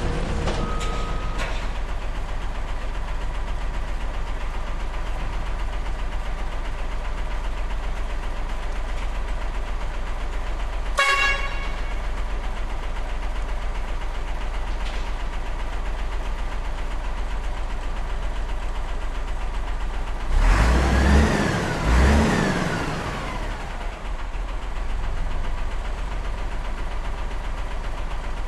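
Model truck's engine sound running steadily, with a short horn toot about eleven seconds in. A louder passage of falling, sliding tones comes about twenty seconds in.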